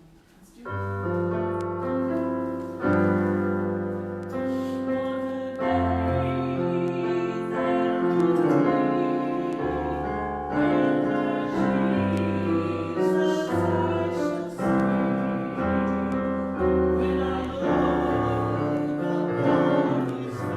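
Keyboard playing slow, held chords that begin about a second in, opening a worship song.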